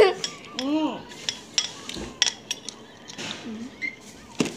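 Chopsticks and tableware clicking and clinking against dishes during a meal, a series of short, sharp clicks at irregular intervals.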